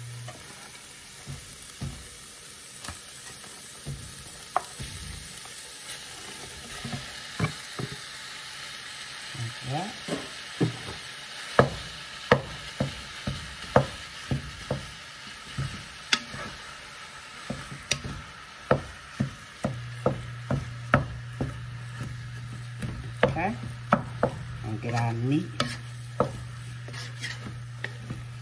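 Ground turkey and diced onions and bell peppers sizzling in a pot while a wooden spatula breaks up and stirs the meat, with frequent knocks and scrapes of the spatula against the pot. A low steady hum cuts out just after the start and comes back about two-thirds of the way through.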